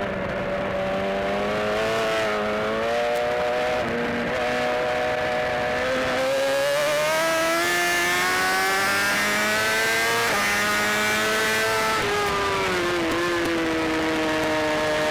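BMW S1000RR sport bike's inline-four engine under hard acceleration on track. The engine note climbs and then drops back at each gear change, several times over.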